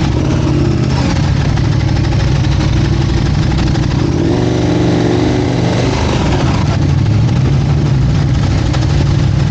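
Motorcycle engines idling with a steady low rumble. About four seconds in, another engine note rises over it and drops in pitch, falling away after about six seconds.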